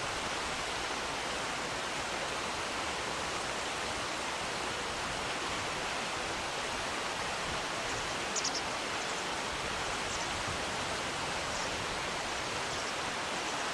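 Steady rush of flowing river water. A few faint, short high chirps about eight seconds in.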